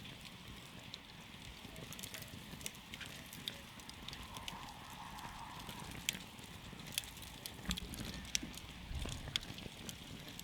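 Wood campfire burning, with frequent irregular crackles and pops over a steady low rush of the flames.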